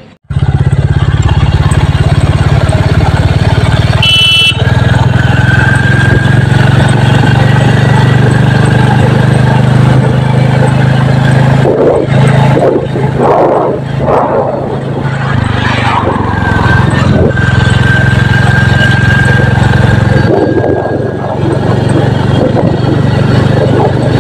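Royal Enfield Classic motorcycle's single-cylinder engine running steadily while riding, loud throughout. A brief high beep sounds about four seconds in.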